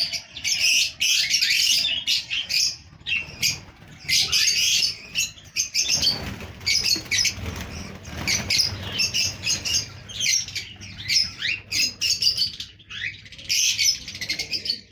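Many small caged parrots chirping and chattering together, with a rustling flutter about six seconds in.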